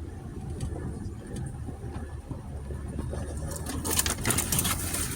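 2020 Jeep Gladiator running slowly on a dirt trail, a steady low rumble, with a run of crackling clicks and scrapes from about three and a half seconds in.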